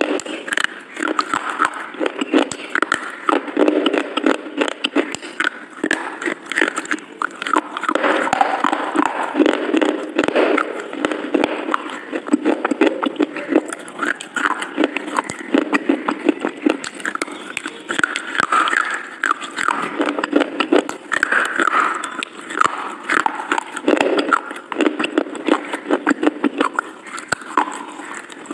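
Crunching and chewing of hard, brittle white sticks, a dense run of crackling bites and mouth sounds.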